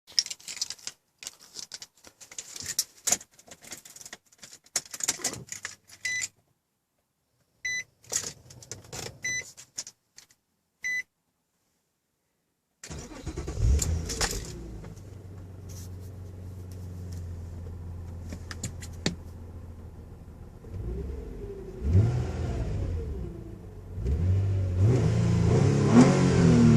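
Keys jangling and clicking, then a few electronic chime beeps. About halfway through, the 2006 Nissan Altima SE-R's 3.5-litre V6 starts and idles steadily, then is revved twice near the end, the pitch rising and falling through the exhaust.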